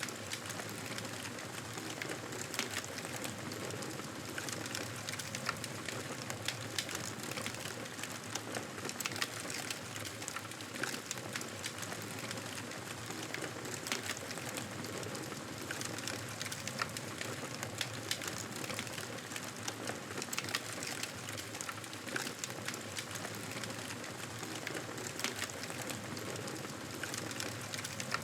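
Wood fire burning in a fireplace: a steady hiss with frequent small, irregular crackles and pops.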